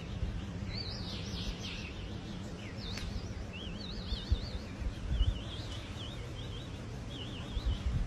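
A songbird singing repeated warbling, trilled phrases over a steady low background rumble, with a couple of dull low thumps about four and five seconds in.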